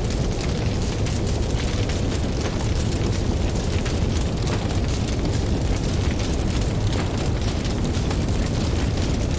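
Campfire crackling with many small sharp pops, over a steady low rumble of ocean waves.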